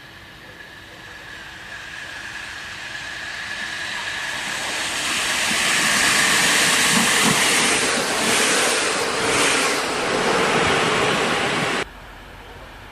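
Passenger train approaching along a station platform, its rail and running noise growing steadily louder until it is close, with a few low wheel thumps at its loudest. The sound cuts off suddenly near the end.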